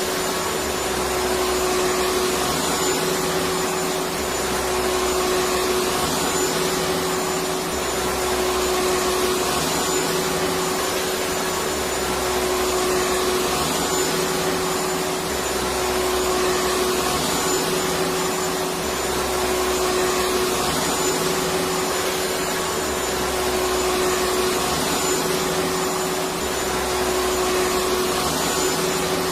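Vacuum cleaner running steadily: a constant motor whine over an even rush of air, with a faint low pulse repeating about every two seconds.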